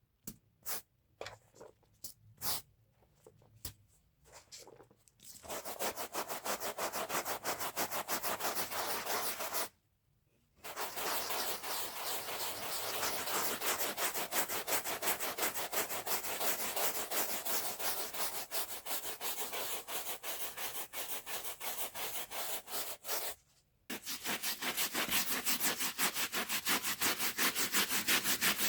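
Hand brush scrubbing a rug's fibers in fast, even back-and-forth strokes, stopping twice for a moment. A few scattered taps and clicks come before the scrubbing starts about five seconds in.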